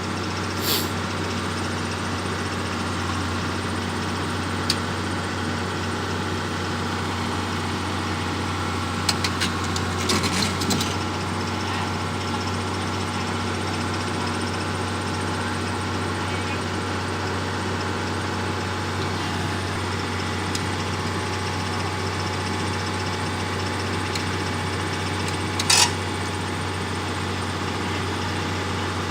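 A heavy diesel engine running steadily, with a few short sharp knocks: a cluster about ten seconds in and another near the end.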